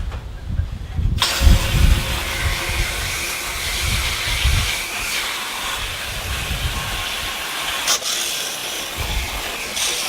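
Low-pressure garden hose spraying water through an air-conditioning condenser's fins to rinse off the foam cleaner: a steady hiss that starts abruptly about a second in.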